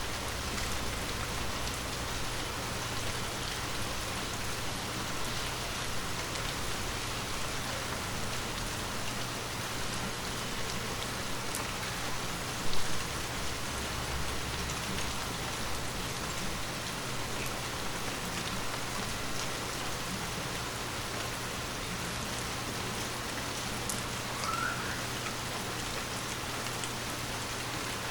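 Steady rain falling on a surface, an even hiss with scattered drops, and a single brief louder thump about halfway through.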